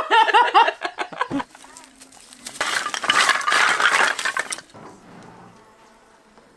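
A voice for about a second, then about two seconds of dense clinking and clattering of hard objects, several sharp knocks packed close together. It fades to a quieter background near the end.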